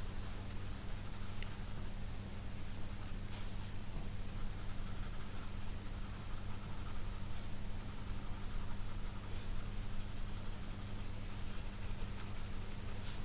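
2B graphite pencil sketching on sketchbook paper, a run of irregular scratchy strokes. A steady low electrical hum sits underneath.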